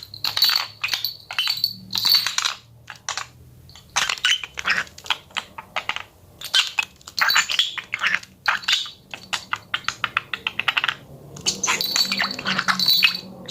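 Pet budgerigar making rapid clicking and tapping sounds in irregular clusters, with short high chirps near the start and again near the end.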